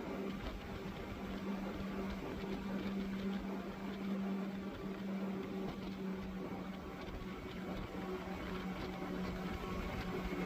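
The engines of a six-engine, 500 hp boat running steadily under way, an even drone with a constant hum at one pitch.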